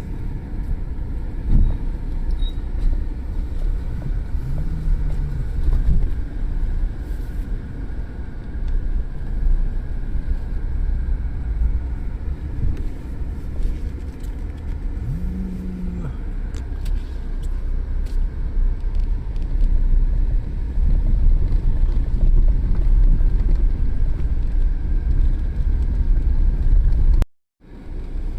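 Strong wind buffeting the microphone, a heavy low rumble that swells and eases in gusts. A couple of brief low tones rise out of it.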